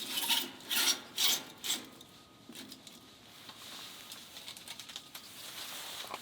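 Four quick rasping scrapes in the first two seconds, then quieter handling and rubbing sounds.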